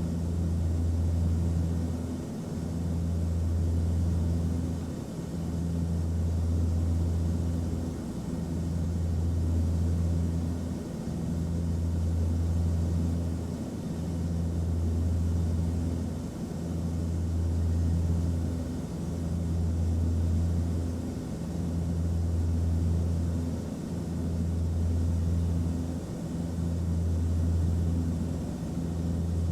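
Airplane cabin noise: a steady low drone that swells and fades regularly, about every two and a half seconds.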